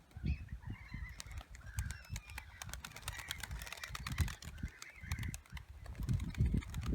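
Birds calling over and over, with sharp clicks and uneven low rumbling underneath.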